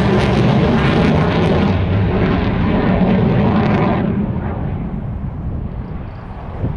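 Military aircraft flying past with a loud, deep rumbling roar that drops away sharply about four seconds in, then fades.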